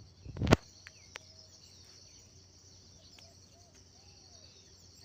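Outdoor monsoon ambience: a steady high-pitched insect buzz with a few faint bird chirps. A single loud thump about half a second in.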